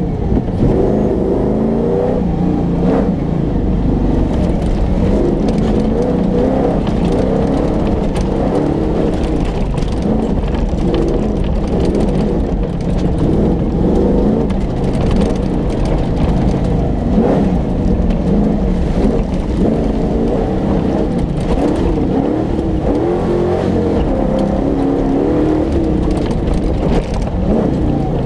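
Engine of an off-road hill-rally competition car revving hard and easing off again and again as it is driven flat out across rough ground, with occasional knocks from the bumps.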